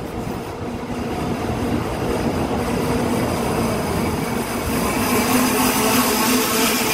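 Korail passenger train pulling out along the platform, its wheels rumbling louder as it gathers speed, with a steady low hum underneath.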